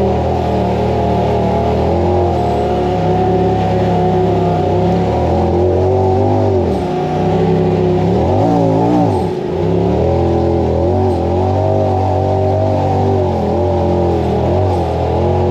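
Side-by-side UTV engine running under way on a trail. The revs shift continually, and about eight seconds in they drop off and climb back up as the throttle is lifted and reapplied.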